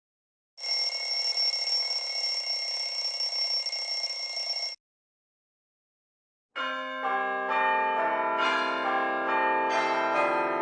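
Two separate clips. First, a steady noisy sound with a fixed high whistle-like tone, lasting about four seconds and stopping abruptly. After a two-second gap, bells ring with many overlapping notes changing step by step for about five seconds.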